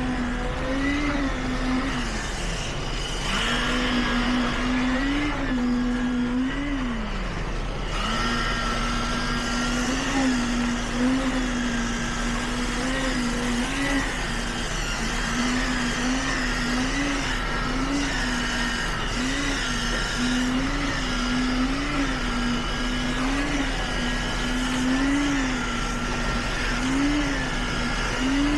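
A construction machine's engine running steadily, its pitch rising briefly and dropping back again and again, about once every second or so, as the load comes and goes.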